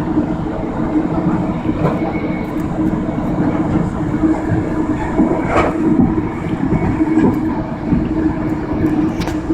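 Amtrak passenger train running, heard from on board: a steady rumble and hum, with a sharp click about halfway through and another near the end.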